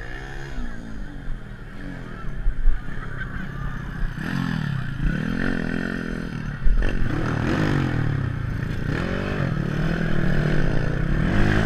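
Several motocross dirt bikes racing, their engines revving up and dropping back again and again as riders shift and work the throttle. They get louder and busier about four seconds in.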